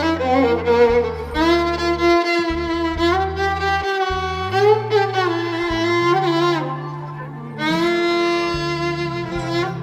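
A violin playing a slow, ornamented melody with slides and vibrato over a backing track with a sustained low bass.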